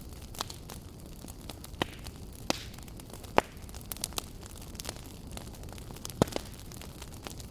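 Wood fire crackling in a fireplace: irregular sharp pops and snaps over a steady low rumble of the flames, the loudest pop about halfway through.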